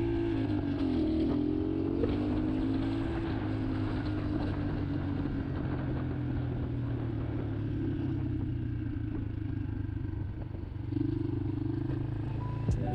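Motorcycle engine running under way with road and wind noise. The engine note dips early on and climbs again within a couple of seconds, like a gear change, then holds steady. It eases off and picks up again near the end, where a few sharp clicks come in.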